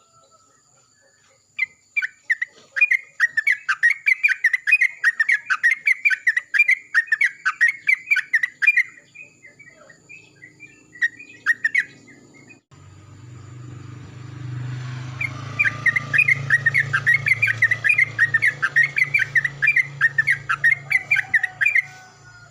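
Yellow-vented bulbul (trucukan) singing in two bouts of loud, rapid chattering notes, separated by a few scattered notes. A low steady hum comes in about halfway and runs under the second bout.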